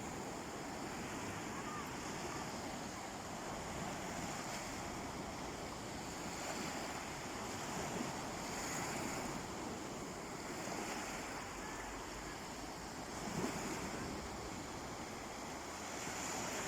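Sea waves breaking and washing onto a beach: a steady surf noise that swells a little every few seconds.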